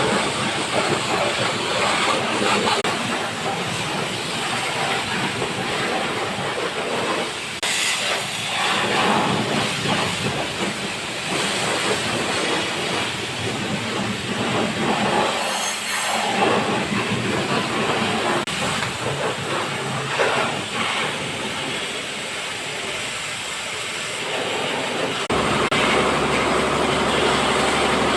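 Washing machine running: a steady, rough rushing noise of water and the turning drum, with a low motor hum that starts near the end as the sound grows louder.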